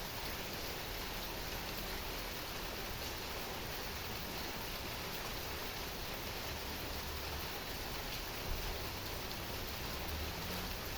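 Heavy rain falling steadily, an even hiss of many drops with a brief low thump about eight and a half seconds in.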